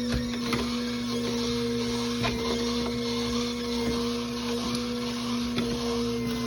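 Electric juicer motor running steadily as apples are juiced, with a few light knocks over its even hum.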